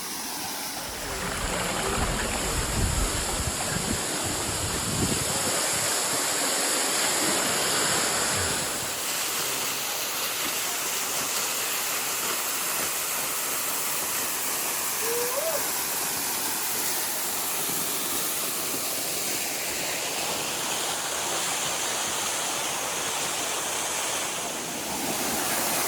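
Small rocky waterfall running steadily on its low dry-season flow, a continuous rush and splash of water. There is some extra low rumble in the first several seconds.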